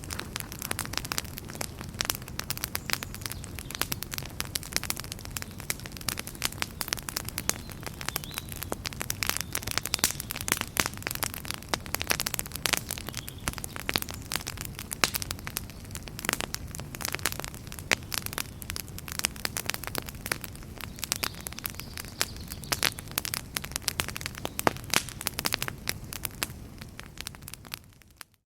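Wood fire in a fireplace crackling and popping in dense, irregular snaps over a steady low rumble. It fades out briefly near the end.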